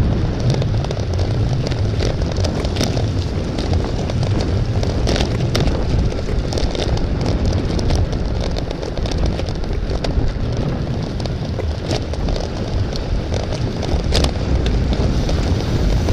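Steady wind rumble buffeting the microphone, with road noise and scattered sharp clicks and rattles.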